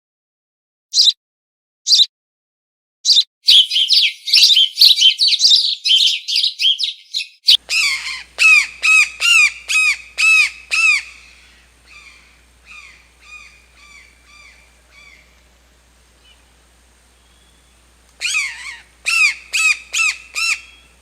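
Bird calls from two recordings. First come short sharp calls about once a second, then a dense run of quick chattering calls. About seven seconds in, a series of loud, arching squawk-like calls starts at about two a second; they fade away, then start again near the end.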